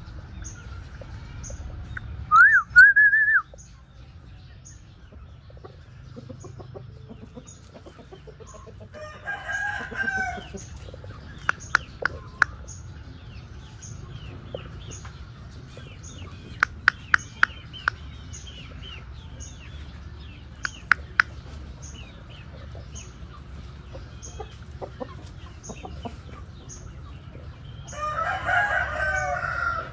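Rooster crowing, once about ten seconds in and again near the end, with a loud short high call a few seconds in and quick runs of sharp clicks in between.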